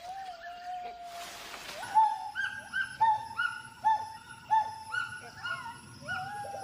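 Gibbon calling: a string of hooting whoops, each sliding up and then dropping, about two a second, following a brief rush of hiss. A thin, steady high whine runs underneath.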